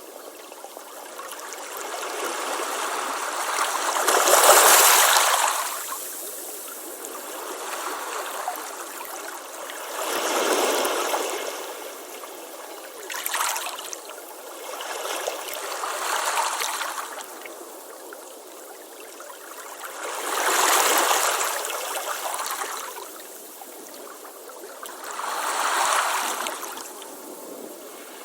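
Ocean waves washing onto a beach: a steady hiss of surf that swells and falls away as a wave comes in about every five seconds. The loudest wave is about four seconds in, and a short, sharper splash comes a little after the middle.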